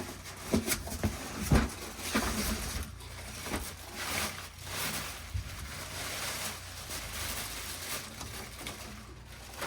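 Handling noise from items being unpacked: a few light knocks and clicks in the first couple of seconds, the sharpest about one and a half seconds in, then uneven rustling and small bumps.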